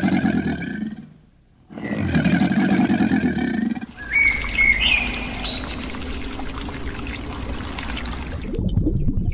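Animal calls: two long, pitched calls with a low voice, then a short rising chirp over a steady rushing background.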